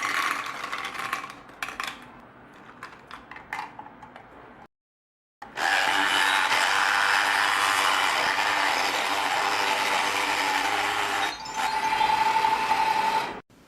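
Light rattling and clicking of small items being handled, then after a short break a small electric blender running steadily for about eight seconds, blending the juice, a higher whine coming in near the end before it cuts off suddenly.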